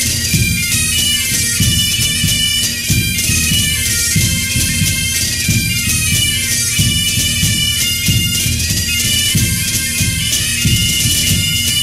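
Bagpipes playing a slow tune over their steady drones, with a drum beating time underneath.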